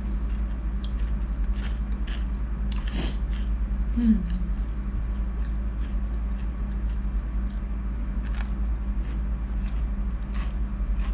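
A person chewing fried squid close to the microphone: scattered wet mouth clicks and crunches over a steady low electrical hum, with a short falling hum from the throat about four seconds in.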